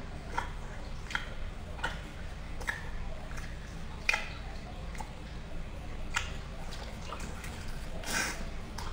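Close-up wet chewing and lip-smacking of a person eating sauce-coated braised pork intestine: irregular short wet clicks about once a second, with a longer wet slurp about eight seconds in, over a steady low hum.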